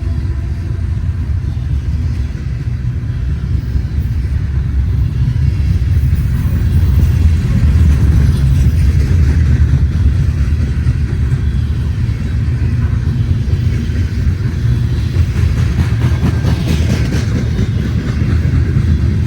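Freight train rolling past: a steady, loud low rumble of diesel locomotives and rail cars on the track.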